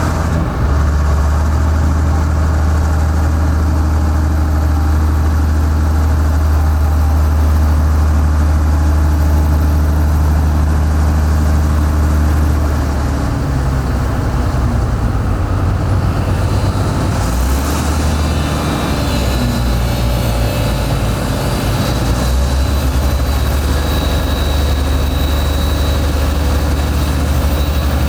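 Heavy diesel engine of construction machinery running steadily under load, its low note changing about halfway through. A thin high whine joins in the second half.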